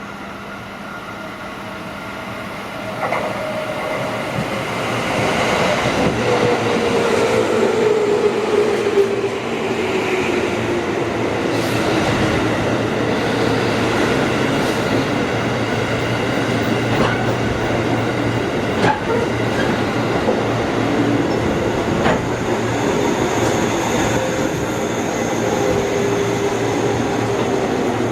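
Train running on rails, growing louder over the first few seconds, with scattered clicks from the wheels and a metallic tone that slowly falls in pitch.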